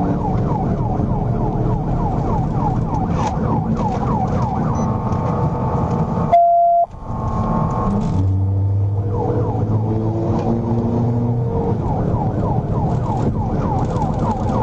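Police car siren in fast yelp mode, rising and falling several times a second over steady vehicle engine and road noise. It drops out for about half a second, with a short beep, about six seconds in.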